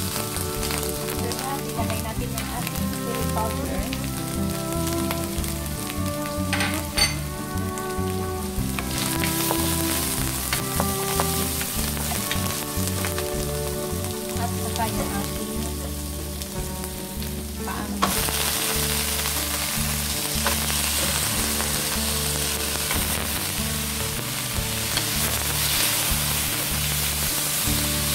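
Chopped onion, ginger, garlic and chili sautéing in oil in a frying pan, stirred with a wooden spatula, over background music. About two-thirds of the way in, a much louder sizzle starts as marinated chicken feet go into the hot oil and fry.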